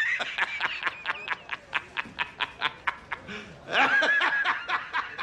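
A high-pitched voice laughing in rapid short bursts, about five a second, with a drawn-out squeal about four seconds in.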